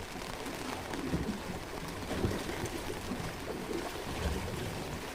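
Rain and sea water splashing around a small fishing boat, an even hiss with irregular low splashes against the hull.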